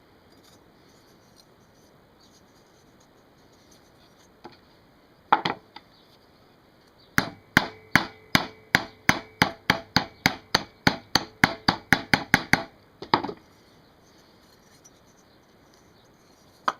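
Hammer tapping on a British Seagull outboard's brass fuel tank to work out a dent: a few knocks, then a quick even run of about eighteen taps, about three a second, with the tank ringing faintly under them, and two last knocks.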